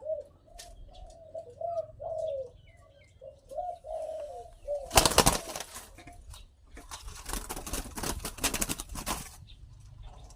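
A dove cooing, a run of short rising-and-falling notes over the first few seconds, followed by two loud bursts of rapid flapping, the second lasting about two seconds.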